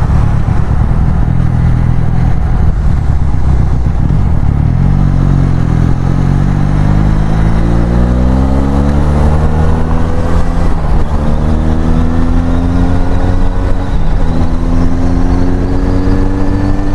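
Benelli Leoncino 500's parallel-twin engine through an aftermarket exhaust. It rumbles low at first, then rises steadily in pitch as the bike accelerates from about five seconds in. About fourteen seconds in the pitch dips briefly and climbs again.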